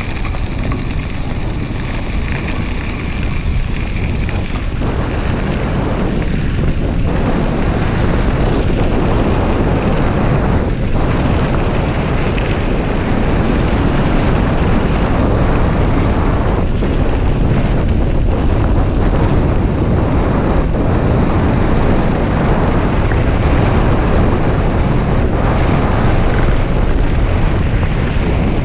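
Steady wind rumbling and buffeting on a microphone during a bicycle ride, a little louder after the first few seconds.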